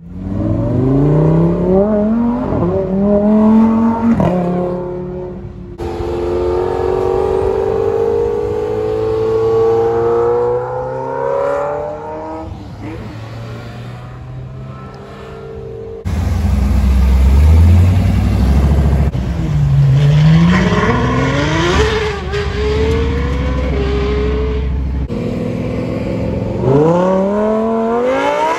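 Sports car and supercar engines revving hard as cars accelerate away one after another, the pitch climbing and dropping back at each gear change, with abrupt cuts between clips. About halfway through comes a stretch of loud low rumble. Near the end a Lamborghini Huracán's V10 winds up in quick rising revs.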